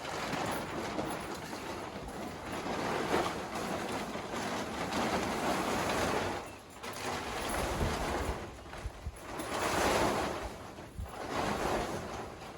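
A rushing noise that swells and fades every few seconds, with no clear tone.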